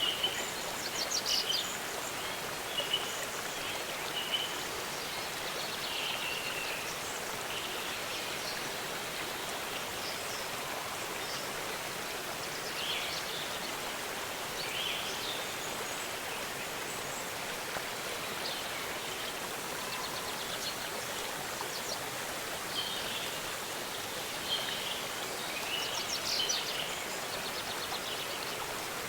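Steady rush of a waterfall, with small birds chirping on and off over it, busiest near the start and again near the end.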